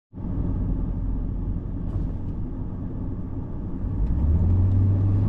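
Truck engine running with a steady low rumble, growing louder about four seconds in as it is given more throttle.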